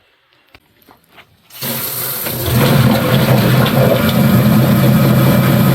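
Automatic chicken plucker switched on after a few faint clicks: its motor spins the drum up within about a second and then runs steadily with a low hum and a rushing, splashing water sound.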